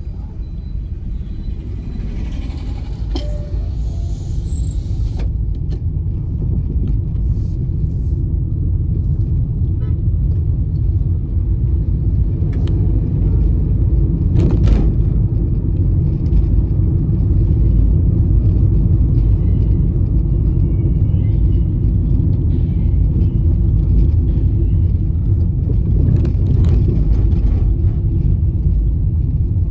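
A car driving on the highway: a steady low rumble of road and tyre noise that grows louder over the first fifteen seconds or so, then holds, with a few faint clicks.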